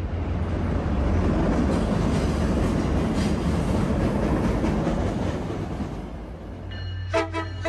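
A passing train: a deep rumble with wheel-on-rail clatter that swells, holds, then fades. Near the end a pulsing, horn-like tone begins.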